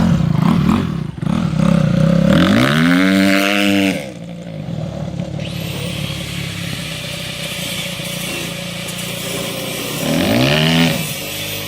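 Car engine running through a partly cut exhaust with the muffler being chopped off, revved up and back down twice, about two seconds in and again near the end.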